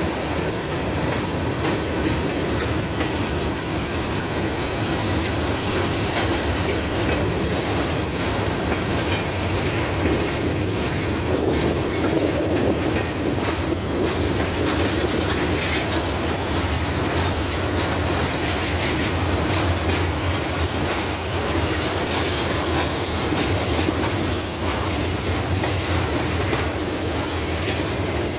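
Freight train cars (tank cars, covered hoppers, boxcars) rolling steadily past: a continuous rumble of steel wheels on rail, with clicking as the wheels cross the rail joints.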